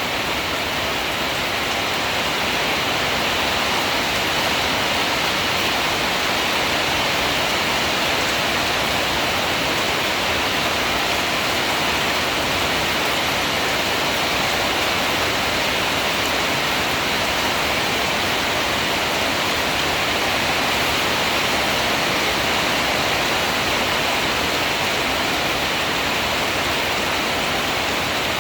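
Heavy rain falling steadily during a storm, a continuous even hiss of downpour.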